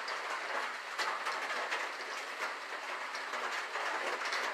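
Steady rain on a tin roof: an even hiss dotted with many small drop ticks.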